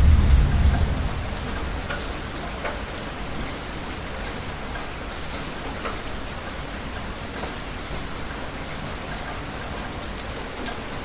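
Heavy rain falling steadily, with scattered sharper drops. A low thunder rumble dies away in the first second or so.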